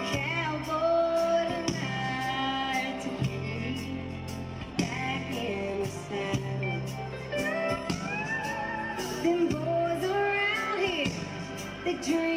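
Live country band playing, with a melodic lead line sliding up and down in pitch over steady bass notes.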